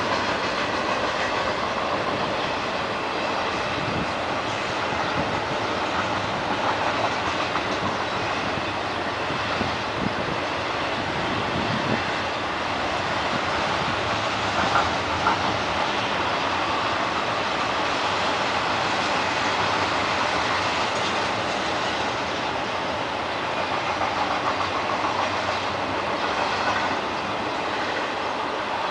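Canadian National freight train rolling past at steady speed, its wheels clicking over the rail joints under a continuous rumble.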